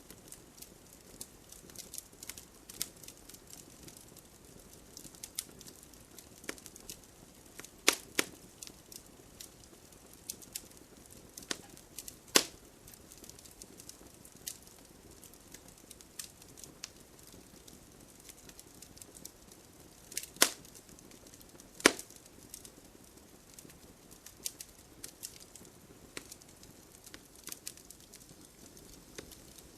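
Campfire burning with a steady low hiss and constant small crackles of wood, broken by four sharp, louder pops spread through.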